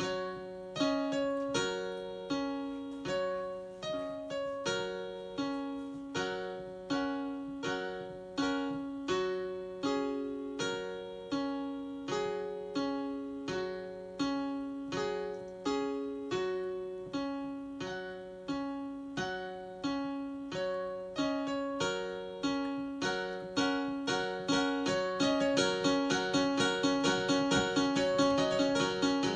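A keyboard playing a steady, repeating pattern of chords and broken-chord notes, about two strikes a second, each note dying away. For the last few seconds the notes come faster and a little louder.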